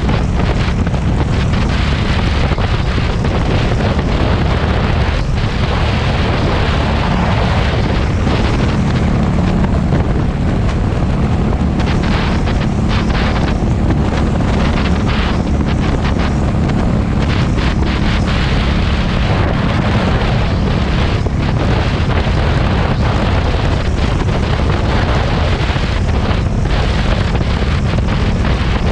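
Heavy wind buffeting the microphone at riding speed, over the steady low running of a Harley-Davidson Street 500's liquid-cooled V-twin through its exhaust.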